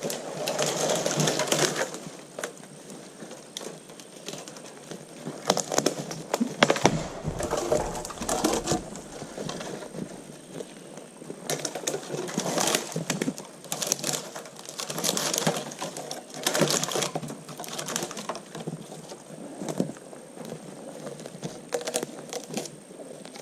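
Branches and thin poles being handled and laid: irregular rustling of twigs and needles with frequent clicks and cracks of wood knocking and snapping, in short bursts.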